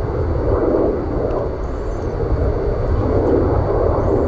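Steady rumble of jet airliner engines at the airport, without clear rises or breaks.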